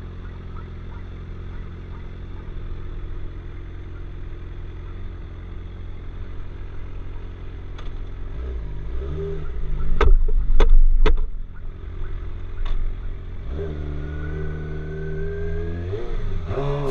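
Motorcycle engine running steadily at idle, then revving up and pulling away with a rising engine note. A few sharp knocks come about ten to thirteen seconds in.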